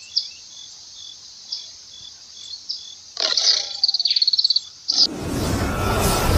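High bird chirps and evenly repeating insect calls, with a quick trill of clicks near the four-second mark. About five seconds in, loud music with a whoosh starts sharply.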